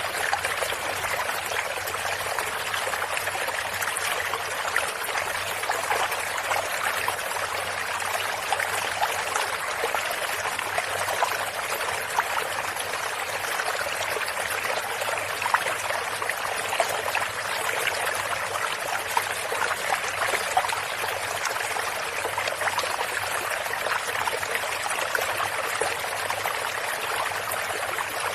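A small stream's running water babbling steadily, with fine trickling splashes and little deep rumble.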